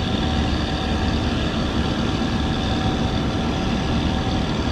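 Steady low rumble with a constant hum of a few held tones, like an idling motor, unchanging throughout.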